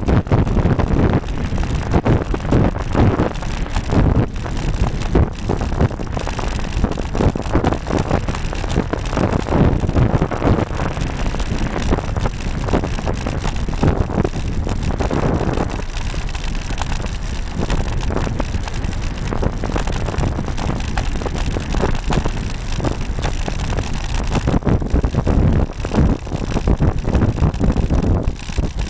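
Wind buffeting the microphone of a camera mounted on a moving road bike, a loud continuous rumble with many short knocks and rattles from road vibration through the mount.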